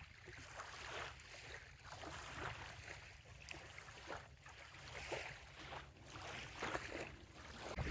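Small wavelets lapping gently at a sandy bay shoreline, soft irregular splashes every half second or so, over a low steady rumble.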